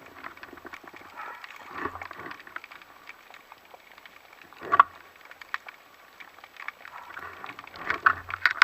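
Underwater ambience: a faint crackling with scattered clicks, and a few louder swishes of moving water, the sharpest about five seconds in.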